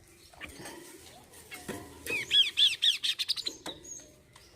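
Bird calling: scattered short notes, then about two seconds in a loud, rapid run of arched chirps, about four or five a second, lasting about a second and a half.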